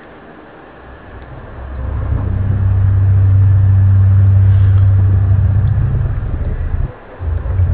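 A loud, deep droning hum of the kind posted as a strange sound from the sky. It swells up over the first couple of seconds, holds at one low pitch, breaks off briefly near the end, then comes back.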